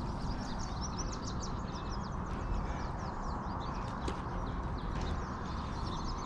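Birds chirping continuously, many quick high notes sliding downward, over a steady low rushing noise.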